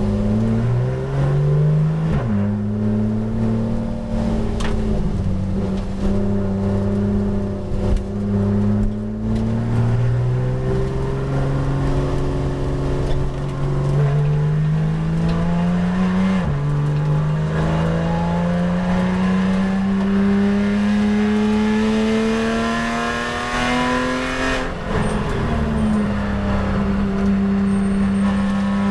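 Porsche 911 GT race car's flat-six engine heard from inside the cabin, pulling hard on track. Its pitch climbs steadily through the revs and drops sharply at three gear changes: near the start, about midway, and near the end.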